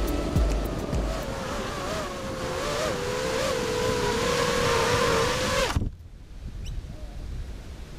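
Six-inch FPV quadcopter's brushless motors and tri-blade propellers whining in flight, the pitch wavering up and down with throttle. The whine cuts off suddenly about six seconds in, leaving faint wind noise.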